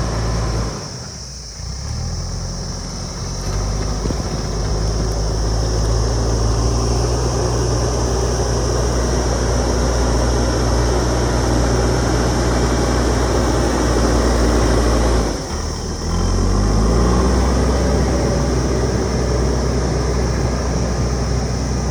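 JCB backhoe loader's diesel engine running hard under load. Its revs drop twice, once near the start and again about two-thirds of the way through, and each time climb back up.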